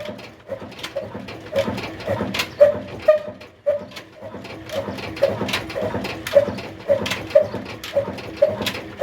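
Old 35 hp stationary diesel engine running slowly, firing evenly about twice a second, with a brief dip about three and a half seconds in.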